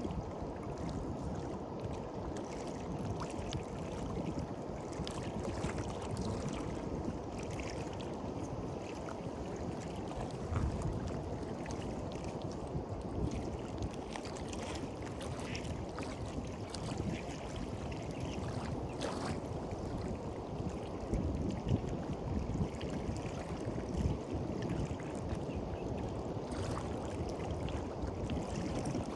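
Ocean waves washing steadily on a beach shore, with faint crackling ticks of water and no distinct breaking crash.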